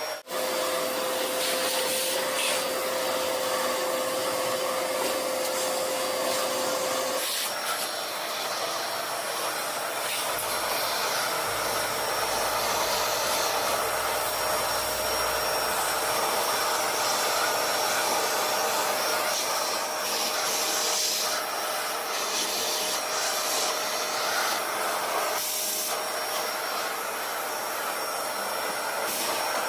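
Vacuum cleaner running steadily, a loud rushing of air over a steady motor hum, which steps slightly higher in pitch about seven seconds in.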